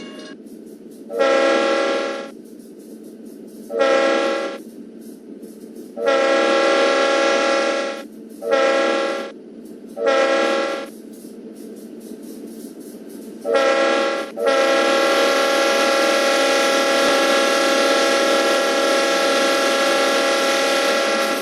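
Freight locomotive air horn sounding a chord in a series of short and longer blasts, the last held long, over the steady running of the locomotives' diesel engines.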